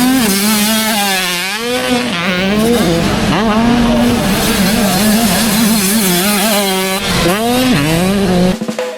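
Motocross bike engines revving hard and easing off again and again through a rough, bumpy section of track, so the pitch keeps rising and falling. The sound cuts off suddenly near the end.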